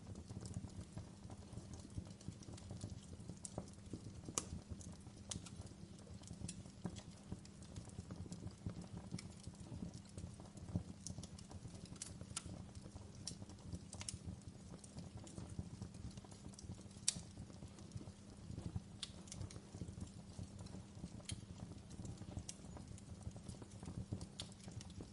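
Wood fire burning in a fireplace: a steady low rumble with irregular sharp crackles and pops, two louder pops standing out about four and seventeen seconds in.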